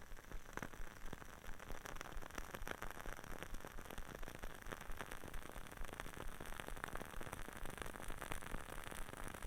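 Dense, irregular crackling and clicking from wooden items close to the microphone, over a light hiss.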